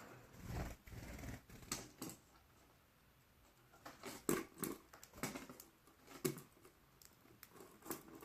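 Faint, irregular small clicks and taps of canaries pecking at and cracking seed held in a hand.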